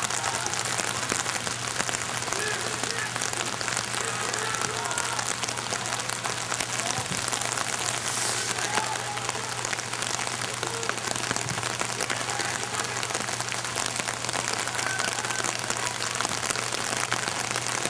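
Steady hiss of rain falling around the microphone, with faint distant shouts from players scattered through it.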